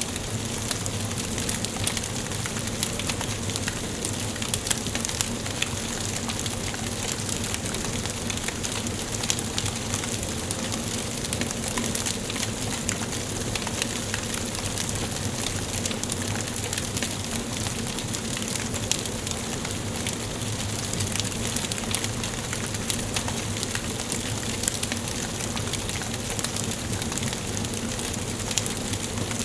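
Wood fire burning in a fireplace: a steady hiss of flames with frequent small crackles and pops from the burning logs.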